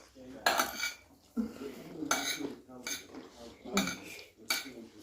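Cutlery scraping and clinking against plates during eating, in irregular separate strokes about every half second to second.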